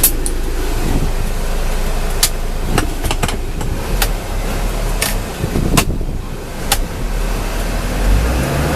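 Truck engine running at low speed with a steady low rumble, and about seven sharp clicks or knocks scattered through it.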